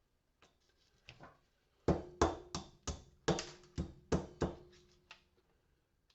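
Hammer blows smashing a porcelain lamp holder on a workbench: a few light taps, then about eight sharp strikes in quick succession over two and a half seconds, with a short ringing under them.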